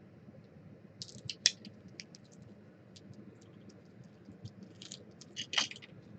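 Trading card pack wrapper being torn open and cards handled: scattered crinkles and clicks, with a louder crackle about one and a half seconds in and another near the end.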